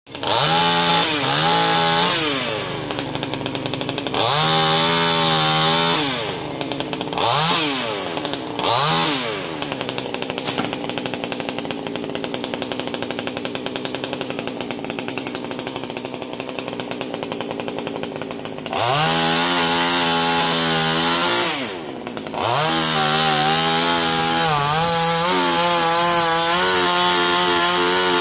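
Small top-handle chainsaw revved in several short bursts, then idling from about ten to eighteen seconds in, then held at high revs for most of the rest, with a brief drop about 22 seconds in.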